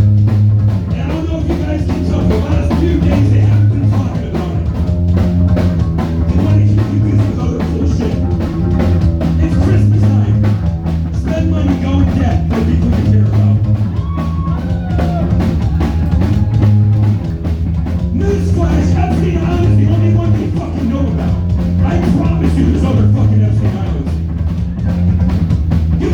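Live rock band playing: drums, bass and electric guitar, with a low bass riff that repeats about every three seconds.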